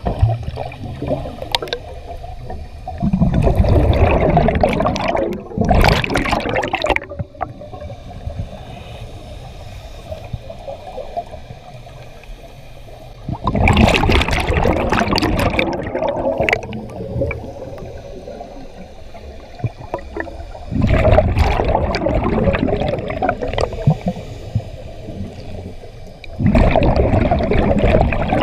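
Scuba diver breathing through a regulator underwater. Exhaled bubbles rush and gurgle in four bursts, each about three seconds long and spaced several seconds apart, with quieter water noise and inhalation between them.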